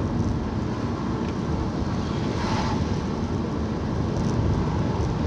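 Steady low road and engine rumble heard inside a moving vehicle, with a faint brief sound about two and a half seconds in.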